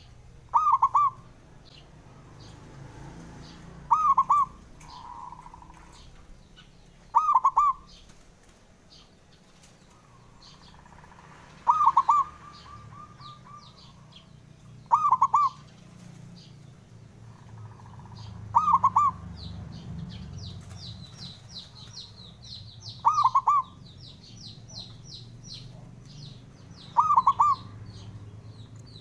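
Zebra dove (perkutut) cooing its song: eight short, loud phrases of quick rolling notes, repeated every three to four seconds. A fast run of faint, high chirps comes in about two-thirds of the way through.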